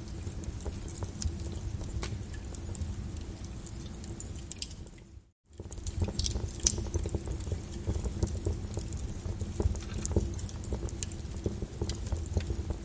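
Wood fire in a fireplace crackling, with frequent sharp pops and snaps over a low rumble of flame. The sound drops out to silence for a moment about five seconds in, then carries on.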